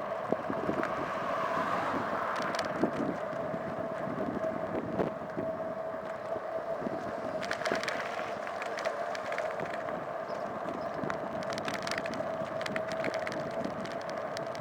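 Wind buffeting the microphone on a moving ride, over a steady whine and scattered light clicks and rattles that come thicker in the second half.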